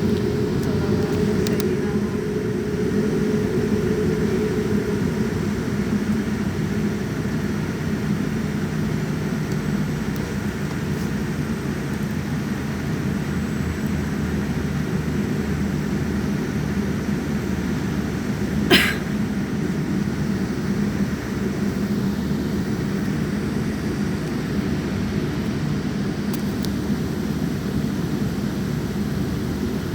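Jet airliner engines and airflow heard from inside the passenger cabin: a steady low drone. One short sharp click comes about two-thirds of the way through.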